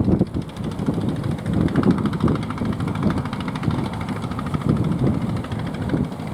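Strong wind buffeting the microphone: an irregular, gusting low rumble.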